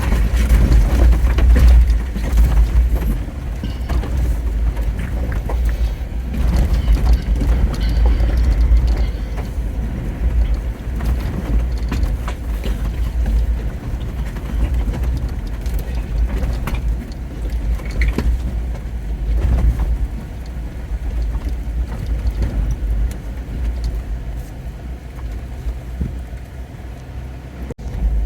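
Jeep Wrangler driving, a steady low rumble of engine and road noise with scattered clicks and knocks, easing off somewhat near the end.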